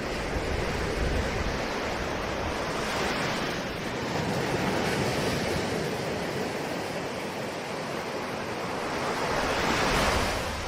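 Ocean surf: waves breaking and washing in a continuous rush, swelling twice, with the loudest surge near the end.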